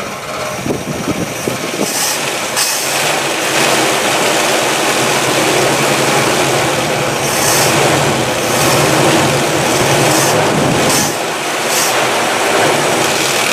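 A 1962 Chevrolet engine with breaker-point ignition idling steadily, set just a little low in idle speed. It grows louder a few seconds in and dips briefly near the end.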